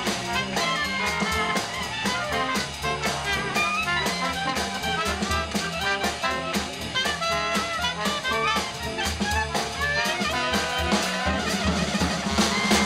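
A small jazz band playing live: horns and clarinet carry the melody over piano, bass and a drum kit keeping a steady swinging beat.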